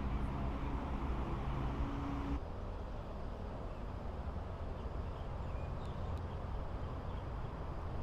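Strong wind rumbling on the microphone outdoors, with a steady low hum underneath that cuts off abruptly a little over two seconds in.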